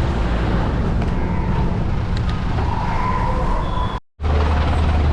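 Road traffic noise with a heavy low rumble, heard on the move through town. About four seconds in the sound drops out for a moment, then comes back as a steady low hum.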